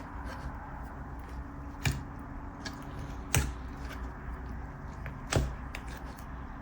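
Whipped slime being squished and stretched by hand, with small crackles and three sharp pops, about two, three and a half and five and a half seconds in.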